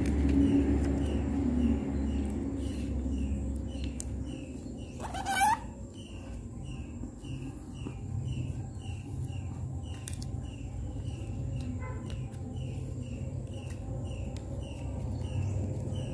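A bird chirping over and over, about two short chirps a second, with one brief, loud rising sweep about five seconds in. A low rumble underneath fades after about four seconds.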